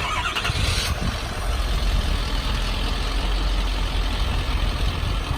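Ford F-550's 6.7-litre Power Stroke V8 diesel starting up, then settling into a steady idle, smooth and quiet.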